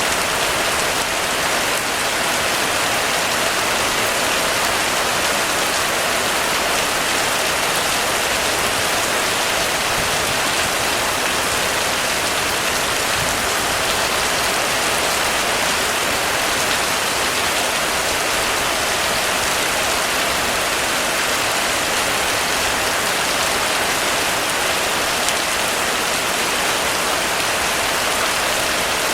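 Heavy rain falling steadily on a roof, an even, unbroken hiss with no pauses or separate events.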